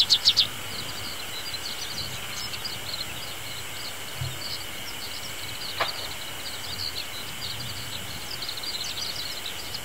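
A few loud, sharp song notes from a black-browed reed warbler in the first half-second. After them comes a continuous run of fainter high chirps and twitters from a skylark singing, over the faint low hum of an engine-powered grass cutter.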